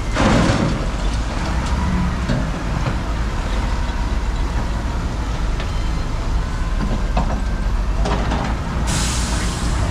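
Heavy road traffic with trucks and buses passing, over a steady low rumble. A vehicle passes loudly just after the start, and there is a short high hiss near the end.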